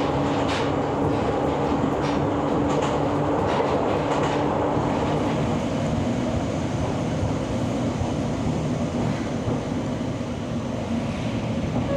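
Ohmi Railway local train running, heard from inside the car: a steady rumble with clicks of the wheels over rail joints and a faint motor hum that drops in pitch about halfway through. It grows a little quieter near the end as the train nears Yōkaichi Station.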